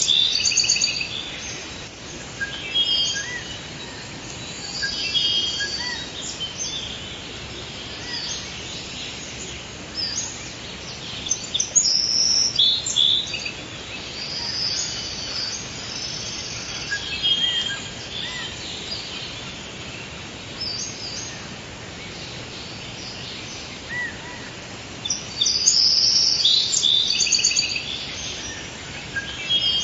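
Forest ambience: several birds chirping and trilling over a steady background hiss, with busier bursts of song about twelve seconds in and again near the end.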